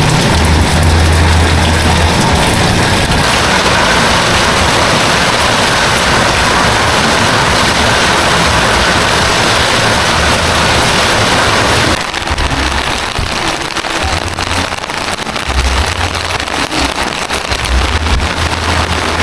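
Heavy rain falling steadily, with low wind rumble on the microphone. About twelve seconds in the sound drops a little and turns into a finer patter of drops.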